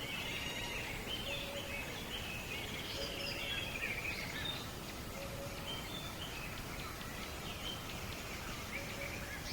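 Several birds chirping and calling in short, high whistled phrases over a steady background hiss of outdoor ambience.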